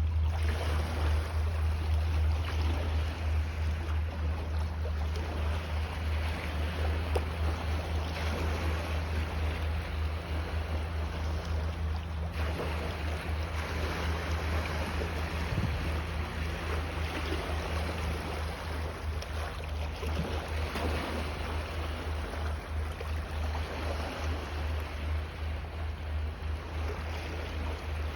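Lake waves washing against the shore with a steady hiss, under a heavy low rumble of wind on the microphone.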